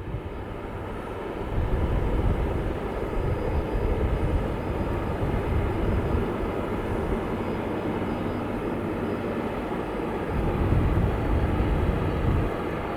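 Airliner engines, a steady rumble that swells about a second and a half in and again around eleven seconds.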